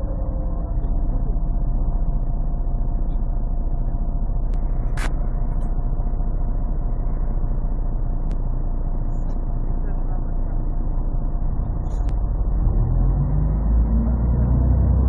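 Interior of a 1998 Scania CN113CLL city bus under way, its Scania DSC 11 diesel engine and Voith automatic gearbox running steadily. The recording is muffled and bass-heavy from a partly covered phone microphone. A sharp click comes about five seconds in, and in the last few seconds the engine note rises and grows louder.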